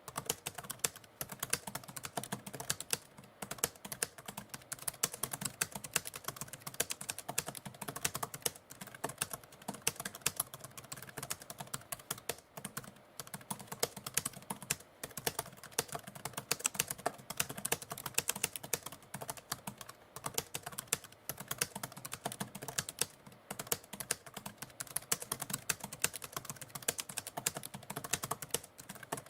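Typewriter being typed on steadily: a dense, continuous run of key clicks.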